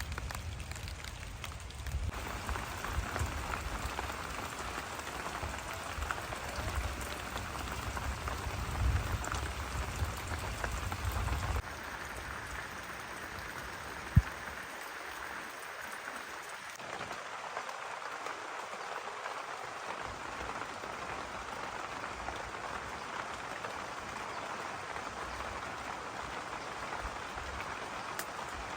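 Steady rain falling, a dense even hiss throughout, with a low rumble underneath for roughly the first eleven seconds and a single sharp tap about fourteen seconds in.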